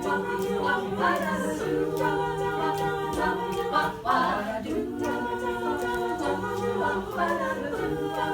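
Women's a cappella group singing without words in close harmony: chords held for a second or more, moving together, over a low sung bass line.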